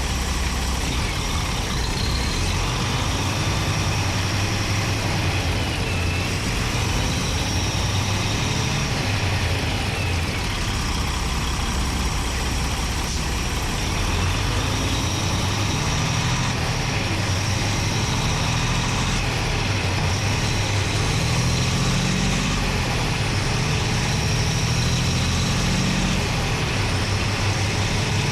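PACCAR MX-13 13-litre diesel engine running steadily, heard close up from inside the engine bay: a low drone that rises and falls slightly, with a steady high whine over it.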